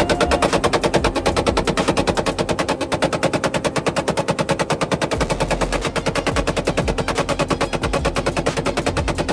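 Vehicle engine held at high revs against its limiter, the exhaust popping and banging rapidly, about ten bangs a second, like machine-gun fire; very loud.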